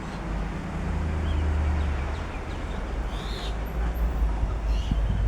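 Strong wind buffeting the microphone as a steady low rumble, with a few short, faint bird calls over it.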